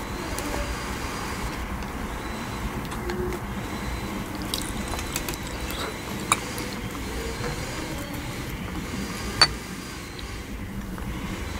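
Close-miked wet, squishy chewing of soft jelly sweets, with two sharp mouth clicks, about six and nine seconds in, the second the louder.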